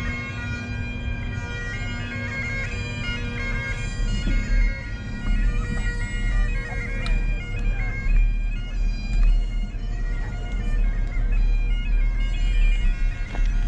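Bagpipes playing a tune over their steady drone, with a low rumble coming in from about four seconds in.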